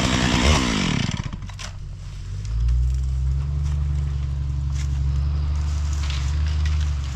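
Stihl 661 chainsaw revving, its engine speed swinging up and down, then dropping back to a low steady idle about a second in. Scattered light cracks sound over the idling saw.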